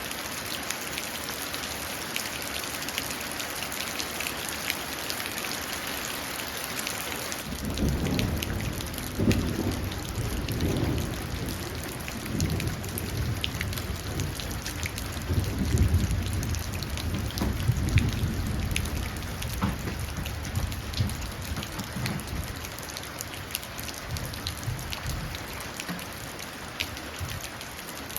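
Steady rain pattering and dripping into puddles. A long, rolling rumble of thunder comes in about a quarter of the way through, swells several times and fades out before the end.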